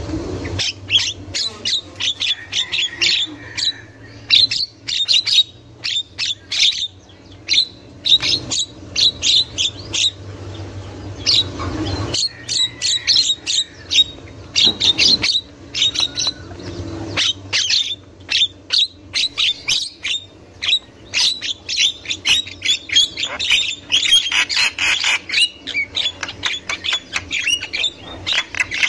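Javan myna calling: rapid runs of short, harsh notes, several a second, with only brief pauses.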